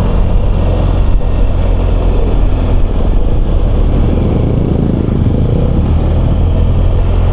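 BMW R1200GS boxer-twin engine running steadily under way, with wind and road noise.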